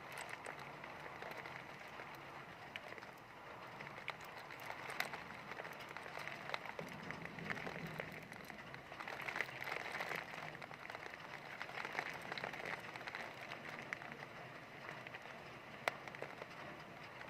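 Heavy rain falling: a steady hiss of rain with many sharp individual drop hits scattered through it.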